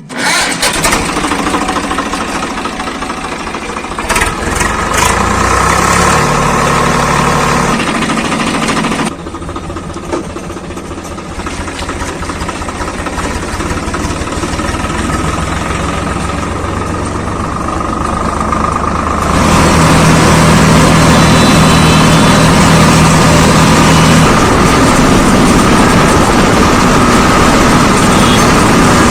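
Swaraj 855 FE tractor's three-cylinder diesel engine running, which sets in abruptly, drops back about nine seconds in, then runs louder and steadily from about nineteen seconds on.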